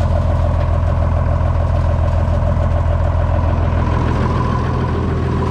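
Combine harvester running steadily: a constant low engine hum with a steady whine above it from the machinery.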